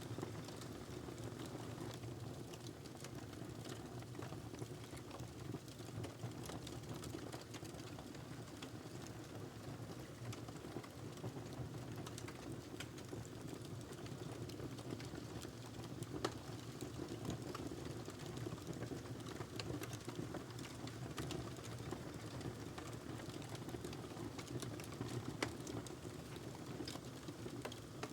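Wood fire crackling in a fireplace: a steady low rumble with scattered sharp crackles and pops, the loudest pop about 16 seconds in and another near 25 seconds.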